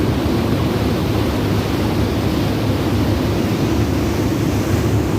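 KFC Jetliner fast ferry's two waterjet engines running steadily under way: a constant low engine drone mixed with the rush of churning water.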